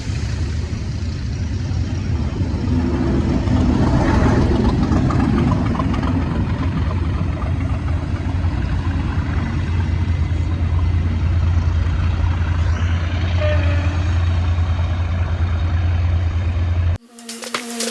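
Diesel train engine running with a steady deep rumble, cut off abruptly near the end by electronic music with a beat.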